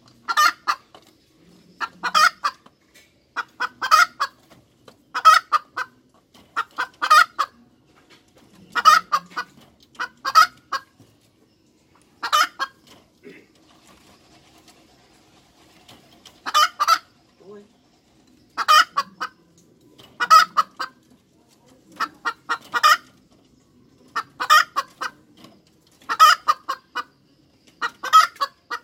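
Hen cackling: bursts of a few short, sharp clucking notes every second or two, with a pause of a few seconds about halfway through.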